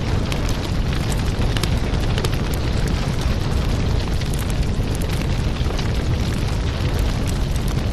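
Wood fire crackling in a fireplace: a steady low rumble of flames with frequent sharp pops and snaps throughout.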